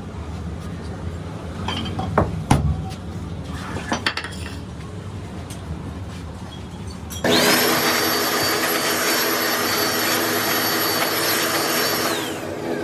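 A few knocks, then about seven seconds in an electric power tool starts suddenly and works on metal with a high steady whine for about five seconds. Near the end its pitch falls as the motor winds down.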